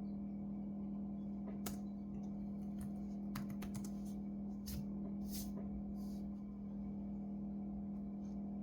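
A scattering of small, sharp clicks and taps from laptop parts and small tools being handled, over a steady low electrical hum.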